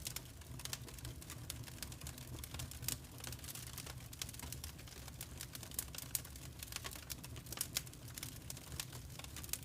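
Wood fire crackling in a fireplace: irregular sharp pops and crackles over a low, steady rumble of the flames.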